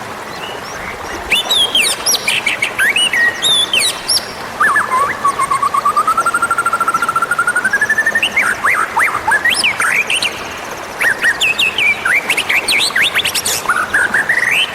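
White-rumped shama (murai batu) singing a varied song of quick sliding whistles. About five seconds in it runs into a long, rapid trill that slowly rises in pitch for about three seconds, then goes back to quick whistled phrases.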